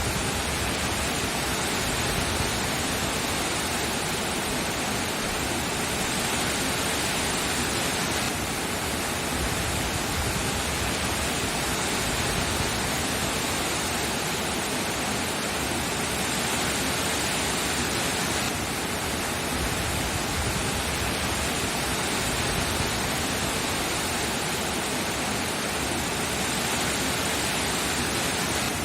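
Steady rain falling, an even hiss with no breaks; its tone shifts slightly about 8 and 18 seconds in.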